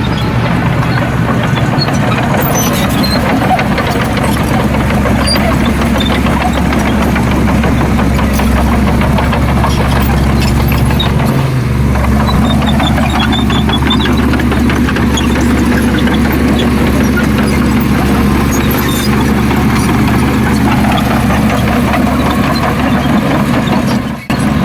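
Heavy diesel engine of earthmoving machinery running steadily, with a brief dip in its low hum about eleven seconds in.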